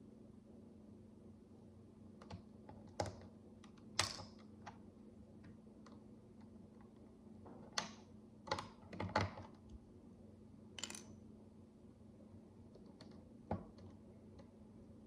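Micro building bricks being handled and pressed together by hand: sparse, irregular small clicks and taps, a few of them sharper, over a faint steady low hum.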